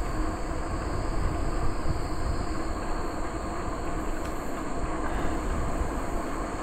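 Steady wind buffeting and rumble on the microphone of a bicycle being ridden at a steady pace, with the tyres rolling on the trail.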